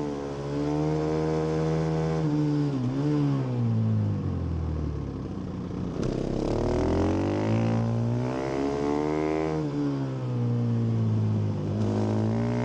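A 2017 Husqvarna FS 450's stock-exhaust single-cylinder four-stroke engine is ridden hard on track. It revs up through the gears and drops in pitch at each shift or when backing off. The revs fall steeply about four seconds in, then climb again from about six seconds.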